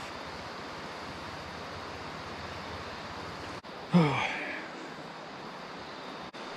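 Steady outdoor wind-and-ambience hiss, then about four seconds in a man's short groan that falls in pitch, the loudest sound, as he feels full from eating.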